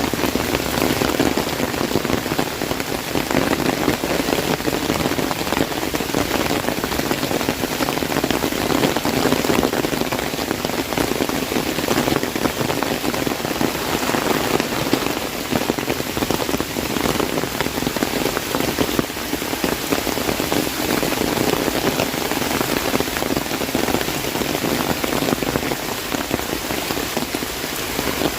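Heavy rain falling on an umbrella: a dense, steady patter of many drops hitting the canopy close by, over the wider hiss of the downpour.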